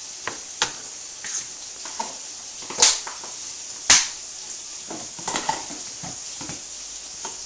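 Kitchen utensil handling while spices are added: scattered clicks, taps and scrapes, with two sharp knocks about three and four seconds in, over a faint steady hiss.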